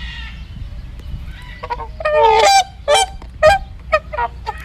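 Geese honking: a run of about six honks, the first and longest about two seconds in, followed by shorter honks about half a second apart.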